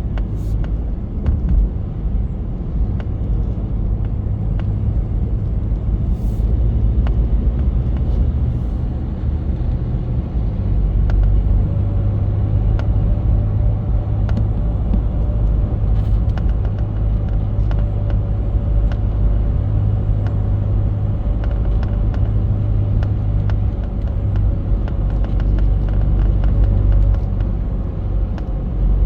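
Cabin of a 2024 Ford Ranger Raptor 2.0 diesel on the move: a steady low road-and-engine rumble with small, irregular clicks and rattles from the dashboard. The owner takes this rattle for a common, chronic fault of the model, one the dealer could not fix.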